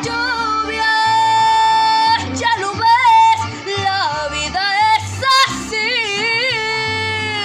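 A woman singing a Spanish-language romantic ballad over instrumental accompaniment, holding long notes with a wide vibrato and sliding between them.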